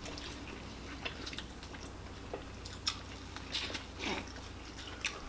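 People chewing and eating, with scattered short, wet mouth clicks and smacks over a faint steady low hum.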